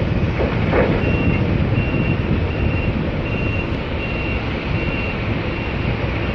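A vehicle's reversing alarm beeping steadily, a high single-tone beep repeating about every three-quarters of a second, over a loud continuous rumbling noise.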